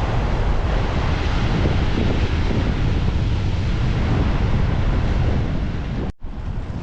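Strong winter gale buffeting the microphone over rough, crashing sea, a loud, gusty rumble. It cuts out abruptly for a split second about six seconds in and comes straight back.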